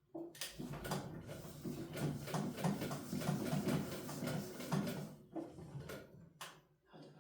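Domestic sewing machine stitching in one run of about five seconds, a low motor hum under rapid needle clicks, then stopping, with a few separate clicks near the end.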